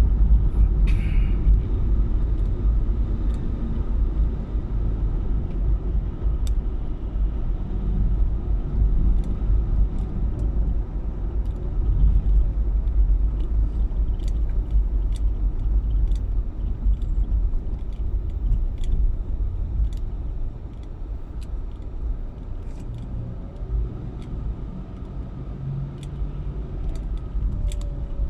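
A car driving, heard as a steady low rumble of road and engine noise, with a few faint ticks over it.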